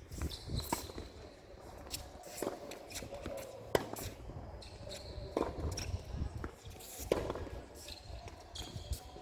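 Tennis rally: sharp racket-on-ball hits come about every one and a half to two seconds, the loudest two about four and seven seconds in. Players' footsteps shuffle on the court between the hits, with a few short high squeaks.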